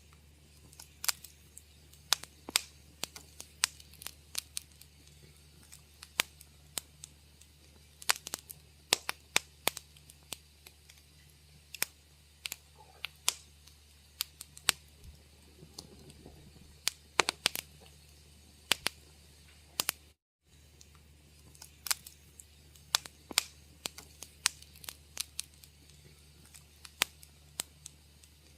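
Wood fire crackling in a fireplace: irregular sharp pops and snaps over a low steady hum, with a brief cut to silence about two-thirds of the way through.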